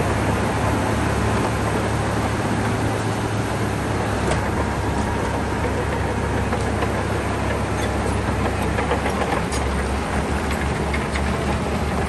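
Shantui crawler bulldozer's diesel engine running steadily under load as it pushes stone, with scattered clanks and clicks from about four seconds in.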